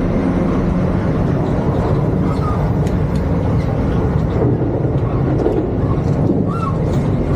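Class 221 Super Voyager diesel tilting train running, a steady rumble with no breaks or changes.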